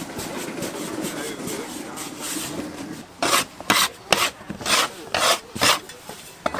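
Hands rolling and rubbing dough strands on a floured wooden work board: a continuous rubbing at first, then from about halfway through a run of about seven quick, sharp swishing strokes roughly half a second apart.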